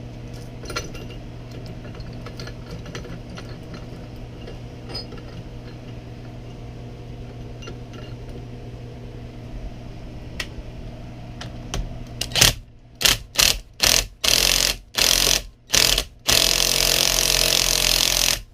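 A steady low hum with faint ticks, then about twelve seconds in an impact wrench hammering in several short bursts and one long run, driving a puller to force a heated, seized part off the differential.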